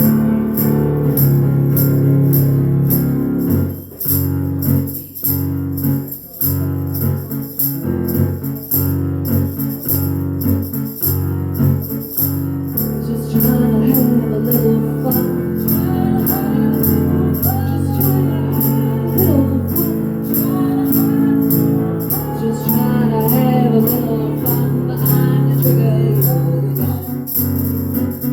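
Live band playing an instrumental passage of a folk-rock song: guitar chords over a steady jingling beat, with a wavering melody line coming in about halfway through.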